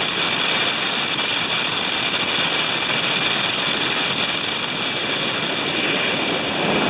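Fuso Canter 4x4 truck driving: a loud, steady roar of engine and road noise that holds even throughout.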